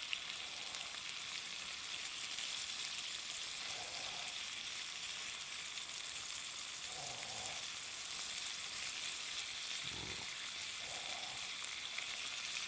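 Shrimp, vegetables and sauce sizzling steadily in a small cast-iron skillet over a gas flame while being stirred with chopsticks.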